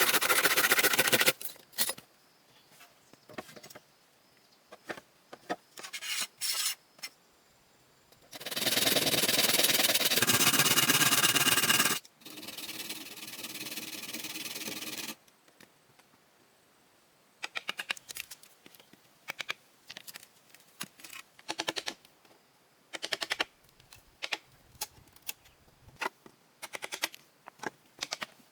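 Construction tool work: a power tool runs in short spells, the longest lasting about three and a half seconds, followed by a quieter run with a steady hum. Then come scattered sharp taps and knocks.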